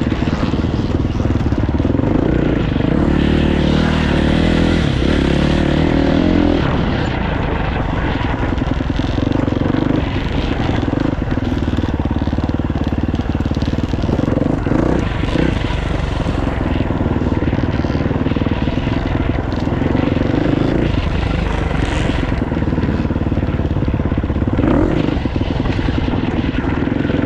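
Dirt bike engine running under load, its revs rising and falling again and again as the rider works the throttle and gears.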